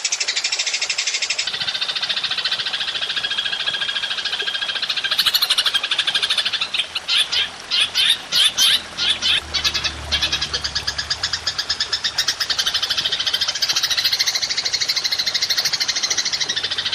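Belalang emas (golden grasshopper) stridulating: a rapid, pulsed, high buzzing trill that breaks into separate loud chirps around the middle, then settles back into a continuous trill.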